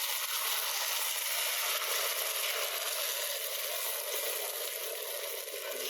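Omelette frying in oil in a pan, a steady sizzling hiss.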